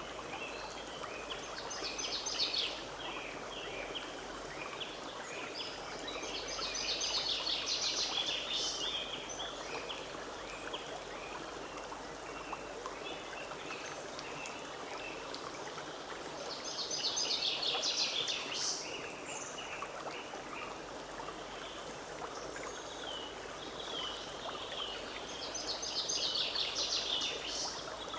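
Forest stream babbling steadily. A songbird sings four fast, trilling phrases, about every eight to ten seconds.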